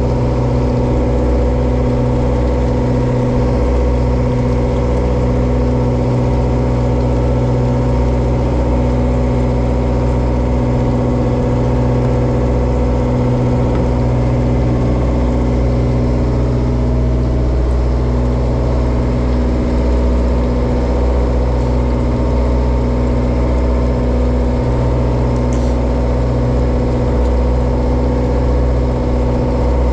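Japanese bottom trawler's diesel engine running steadily at an even speed, a constant deep drone with no change in pitch.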